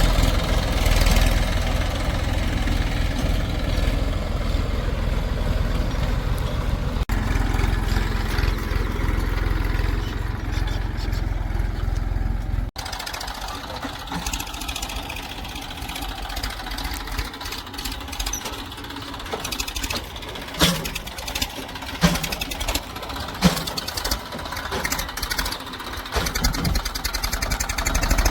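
Heavy diesel machinery engine running, loud and steady for the first half. After an abrupt cut about halfway through, the engine is quieter, with several sharp knocks a little later.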